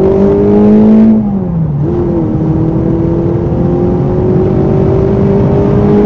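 Ford Fiesta ST150's forged, naturally aspirated 2.0 Duratec HE four-cylinder, heard from inside the cabin, accelerating hard. The revs climb, drop briefly about a second in at a gear change, then rise steadily again under load.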